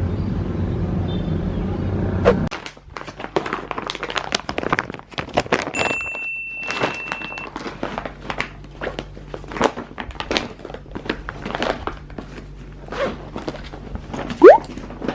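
A rapid, uneven series of thunks and clicks, with a short steady beep about six seconds in and a quick rising whistle near the end.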